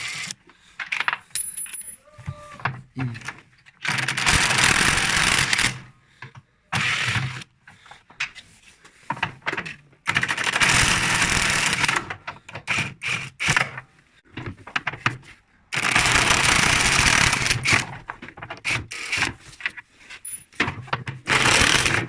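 Electric impact wrench on an extension bar running in several bursts, the longest about two seconds, undoing the ring of screws that hold a front-loading washing machine's outer tub. Between the bursts come metallic clinks of loosened screws and the tool being set on the next screw.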